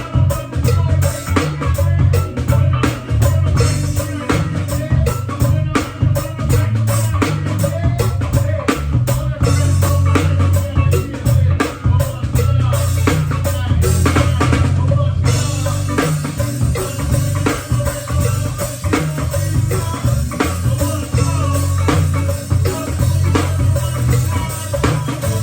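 A band playing music with a drum kit keeping a steady beat over a heavy bass line.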